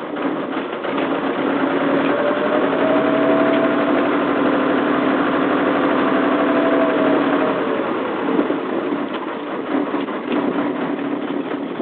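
An engine running steadily, growing louder over the first two seconds, rising a little in pitch and then easing back down about seven seconds in.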